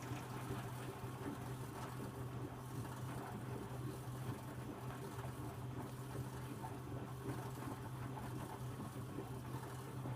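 Electrolux W455H commercial washing machine running mid-cycle: a steady motor hum with water noise. It stops near the end.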